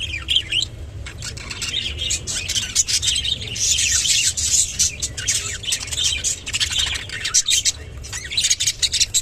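Budgerigars chattering and chirping continuously, with many sharp clicks mixed in; busiest from about three and a half to five seconds in.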